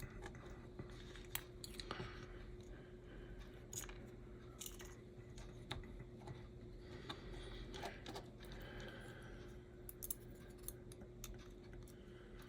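Faint, scattered small clicks and taps of tiny plastic and metal HO-scale slot-car parts being handled and fitted into the chassis, over a faint steady hum.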